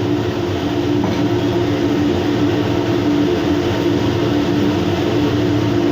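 Steady mechanical hum and rushing air of a ventilation fan, with a constant low drone and no changes.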